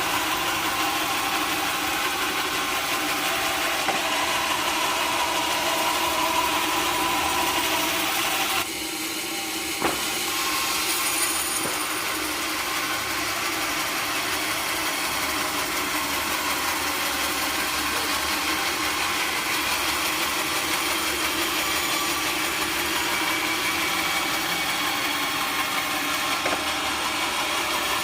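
Sawmill machinery running steadily, with a short dip in level about a third of the way through and a single sharp knock just after it.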